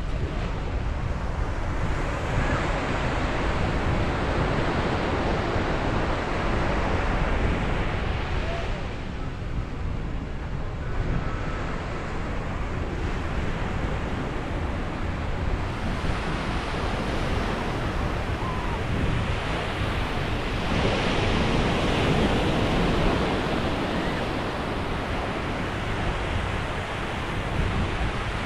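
Ocean waves breaking on a beach, the surf rising and falling in long swells, with wind buffeting the microphone.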